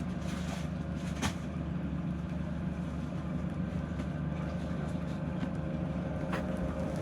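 Boat engine running steadily, a low even hum, with a single sharp click about a second in.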